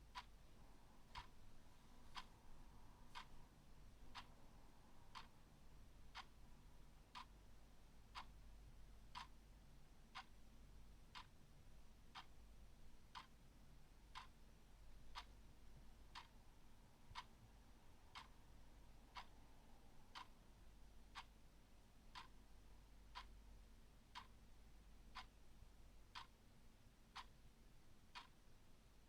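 A clock ticking steadily, about once a second, faint, over a low hum.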